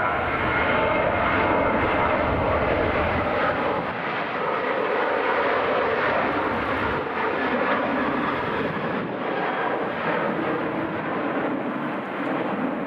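Jet airliner engines at high power, a loud steady rush with a faint high whine in the first few seconds, easing slightly later on.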